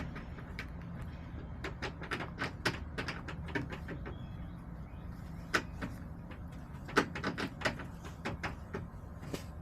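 Hens pecking, a run of irregular sharp taps and clicks with a few louder knocks, over a steady low rumble.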